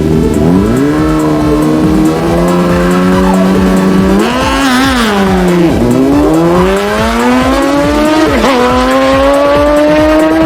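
Drag-racing motorcycle engine under hard acceleration, its pitch climbing steadily and dropping sharply at each gear change, about three times.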